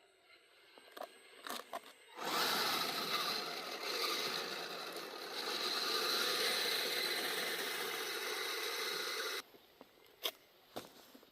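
Radio-controlled crawler driving, its drivetrain and tracks or tyres making a steady grinding, scraping noise for about seven seconds that stops abruptly, with a few sharp clicks before and after.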